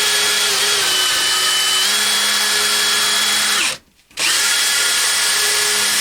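Electric drill with a 1/8 inch bit running at a steady whine into steel angle iron, stopping for a moment about four seconds in and then starting again. The bit is dull.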